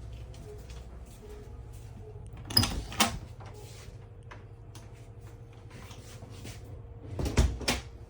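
Doors in a travel trailer clunking open and shut in two bouts about four and a half seconds apart, each a quick run of two or three knocks, over a steady low hum.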